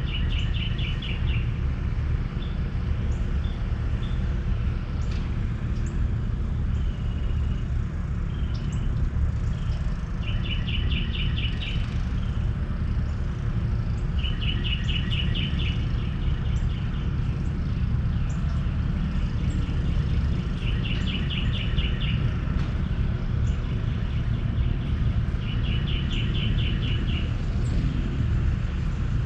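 Outdoor ambience of a steady low rumble, with a songbird repeating a short, rapid trill every few seconds and a few faint chirps between.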